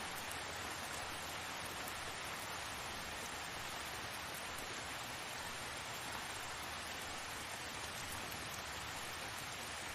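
Steady rain falling, an even hiss with no distinct drops or other events.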